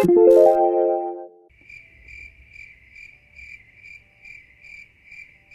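A short chime-like musical flourish: several notes entering one after another and ringing for about a second and a half. Then a cricket-chirp sound effect, short high chirps repeating steadily about twice a second.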